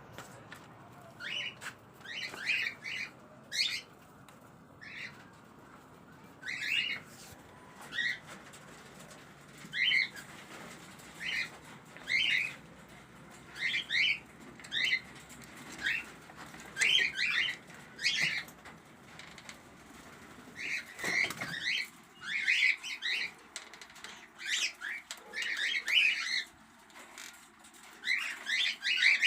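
Cockatiels calling: short, high-pitched chirps, one after another every second or so, with a few calls overlapping in quicker runs near the end.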